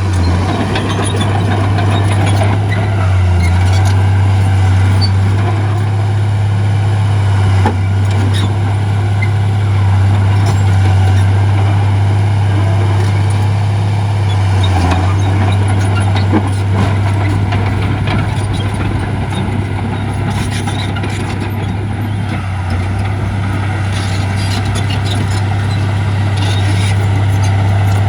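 Heavy diesel earthmoving machinery running steadily with a deep, constant engine drone, with a few sharp clanks along the way.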